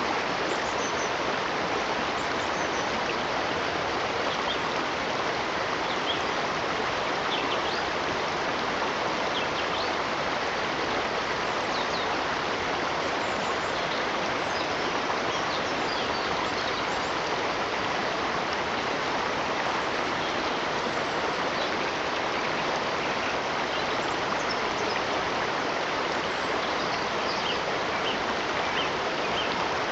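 Stream water flowing in a steady, even rush, with faint high bird chirps now and then.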